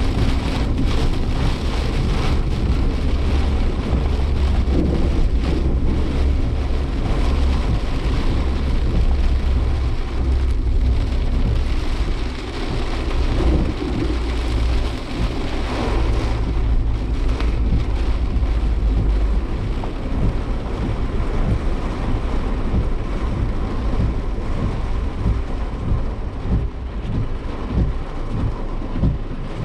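Heavy typhoon rain drumming on a moving Suzuki Jimny Sierra, over a deep road and wind rumble. About two-thirds of the way in the rumble drops away, and scattered irregular taps of drops on the car body stand out.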